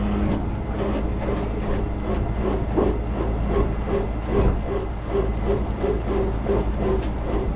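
Tow truck engine running under load while its recovery gear is worked, with a regular clicking or knocking about twice a second over the engine's rumble.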